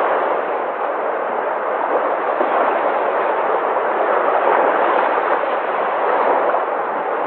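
Sea waves breaking and washing on the shore in a continuous surf that swells and eases a little.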